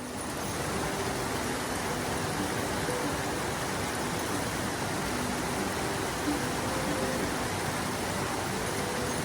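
A steady rushing noise, even throughout, with faint brief tones now and then.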